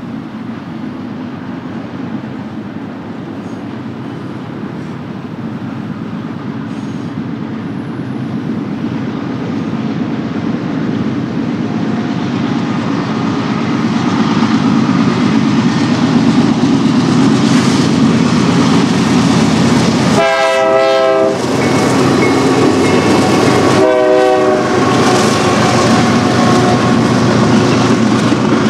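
A BNSF freight train approaching, its steady rumble and wheel noise growing louder over the first half. About twenty seconds in the locomotive sounds its horn twice, each blast about a second long, a few seconds apart.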